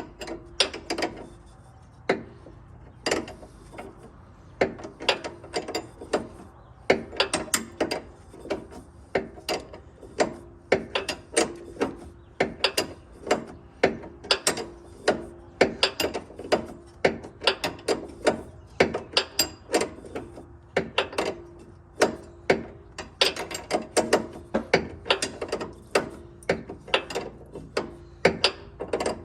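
Hand ratchet wrench clicking in repeated short back-and-forth strokes, tightening the nut on a sway bar end link, with brief pauses between strokes.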